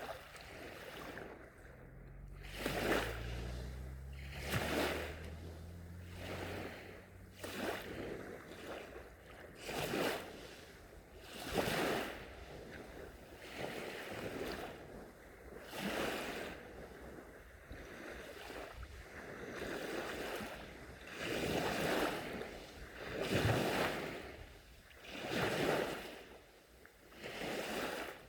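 Small sea waves washing onto a beach, a swell of surf every two seconds or so. A faint low hum sits underneath for the first several seconds.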